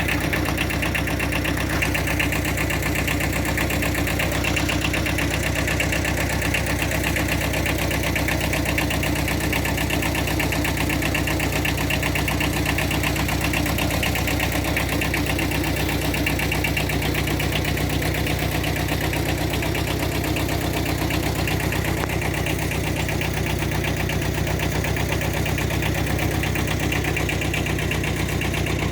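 Engine idling steadily, unchanging throughout.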